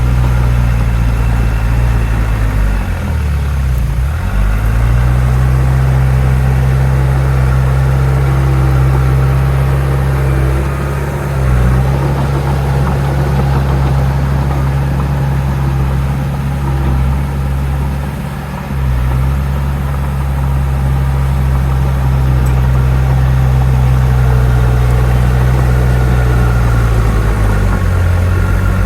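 Heavy earthmoving machine's diesel engine running steadily with a deep hum. It dips briefly in pitch and comes back up about four times.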